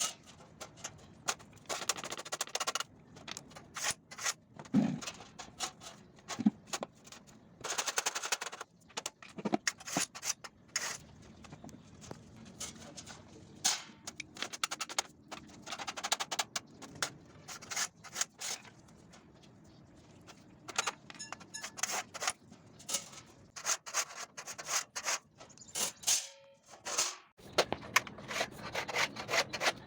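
A steel scriber scratching lines into a sheet-steel floor pan, in short scraping strokes of about a second each, with sharp clicks and taps of metal on metal between them.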